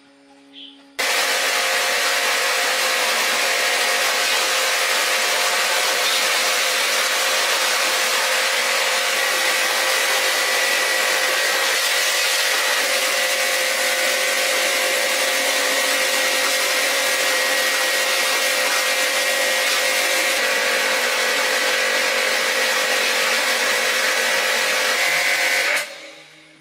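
A power tool running steadily under load, starting abruptly about a second in and cutting off near the end.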